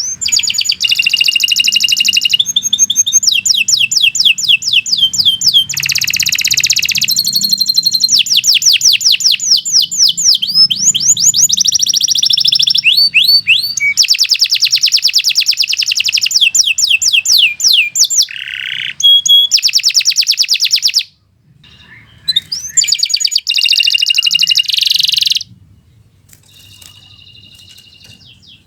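Domestic canary singing long rapid trills, each a run of many quick repeated high notes changing from phrase to phrase. The song breaks off briefly about 21 seconds in, resumes in short phrases, and turns to a faint thin note near the end.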